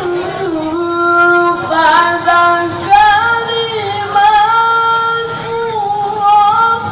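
A child qari chanting the Quran in the melodic tilawah style, holding long ornamented notes with slow bends in pitch between them.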